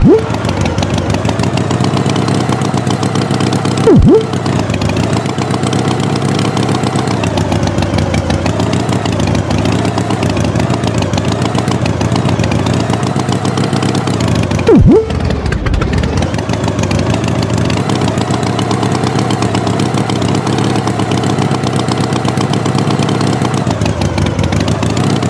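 Animated tractor engine sound effect running steadily, its pitch slowly wavering up and down. Three short, loud sound effects with a quickly falling pitch cut in over it: one at the start, one about four seconds in and one about fifteen seconds in.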